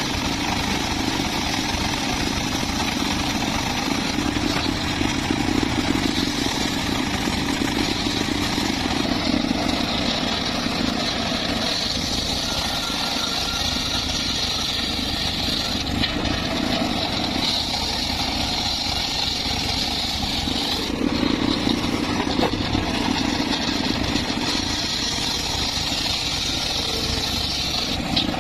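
The small engine of a homemade circular saw rig running steadily, with a high whine that grows stronger for long stretches and eases off again.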